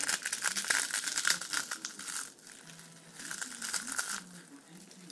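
Crinkly potato chip bag rustling and crackling as chips are handled, in two bursts, the second starting about three seconds in.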